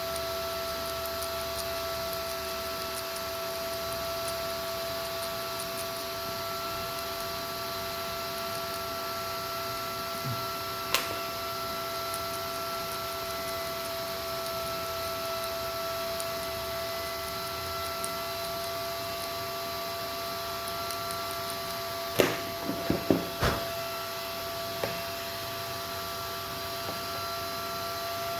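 Steady electrical whine made of several steady tones, with a single sharp click about eleven seconds in and a quick cluster of clicks and knocks a little past twenty-two seconds.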